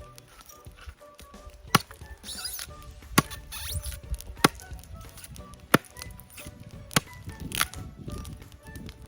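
Wood being chopped with a blade: five sharp chops about a second and a half apart, splitting the charred shell off a leftover half-burnt log to reach the unburnt wood inside. Soft background music runs underneath.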